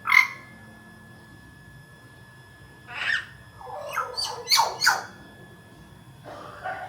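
Hill myna calling: a sharp call at the start, another about three seconds in, then a quick run of several loud whistles and squawks, and a softer call near the end.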